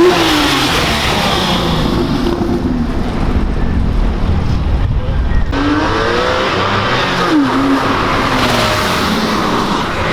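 Sports car engine revving: the note falls away just after the start, then climbs again about halfway through and once more a little later before dropping back.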